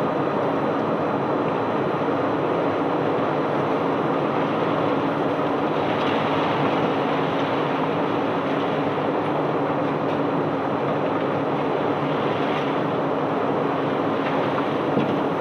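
Crushed white limestone pouring steadily out of a barge as it is unloaded: a continuous rushing rumble of loose rock, with a steady machine hum underneath.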